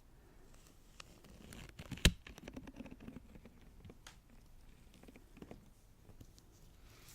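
Latex-gloved hands slick with lotion rubbing and pressing together: soft sticky crackles and small pops, with one sharper click about two seconds in.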